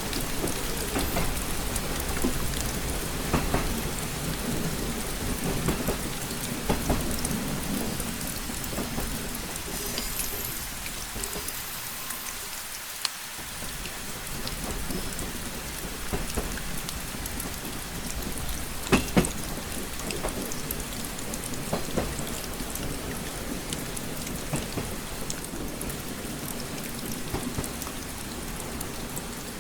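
Steady rain falling on a window, with scattered sharper drop ticks over a low rumble that briefly drops away about halfway through.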